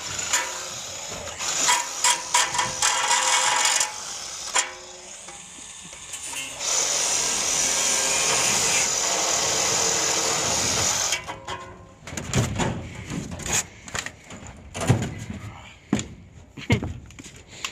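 A power tool runs in short bursts, then steadily for about four seconds in the middle, as the chiller's metal is cut or drilled apart. After that comes a string of metal knocks and clanks.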